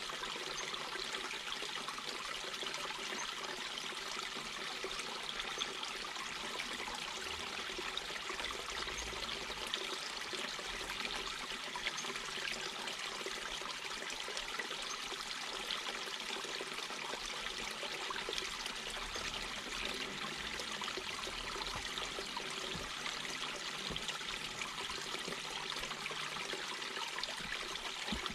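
A mountain brook babbling and trickling over rocks, with a steady rush of flowing water.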